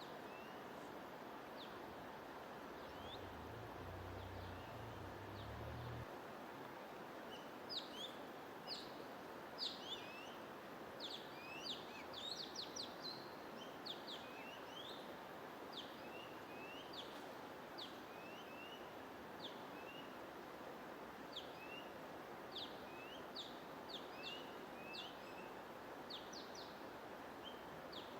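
Small songbirds chirping in many short, quick sweeping notes, thicker from about eight seconds in, over a steady even hiss of white noise or running water.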